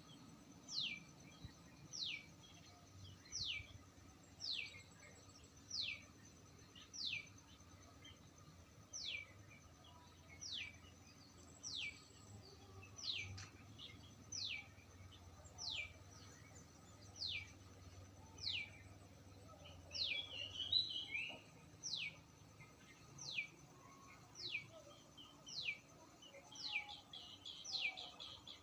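A bird repeating a short, high call that sweeps down in pitch, about once every second and a half, very regularly. A burst of other chirps comes about two-thirds of the way through and again near the end.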